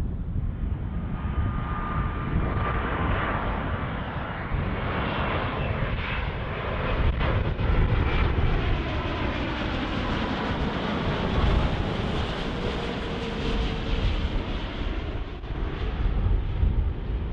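Jet airliner's engines passing by: a dense rumble and hiss that swells towards the middle, with a whine that falls in pitch as the aircraft goes past.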